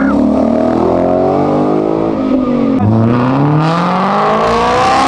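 Car engine accelerating hard away from a standstill. It revs up through one gear, drops on an upshift nearly three seconds in, then climbs again.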